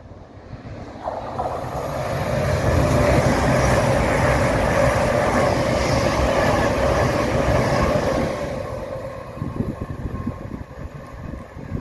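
A CrossCountry diesel multiple unit passes at speed without stopping. Wheel and engine noise builds over the first two or three seconds and holds loud with a steady whine, then fades from about eight seconds as the train moves away.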